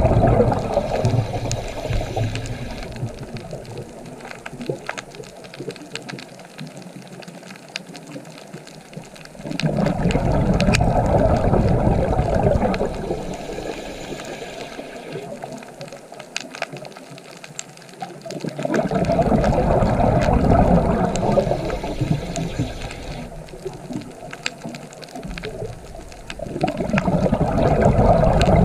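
Rushing, splashing water noise that swells loud roughly every nine seconds and eases off in between.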